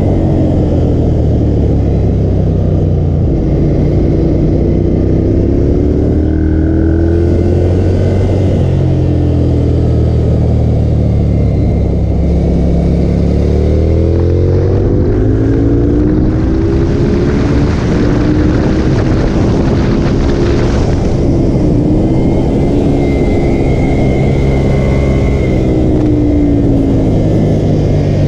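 Ducati L-twin motorcycle engine heard onboard at speed on a racetrack, its pitch rising and falling with throttle and gear changes. There is a run of quick rising revs about halfway through, then a stretch of heavy wind rush.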